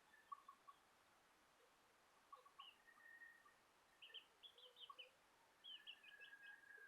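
Faint bird chirps and short calls, with quick runs of high chirps in the second half and a couple of thin drawn-out notes.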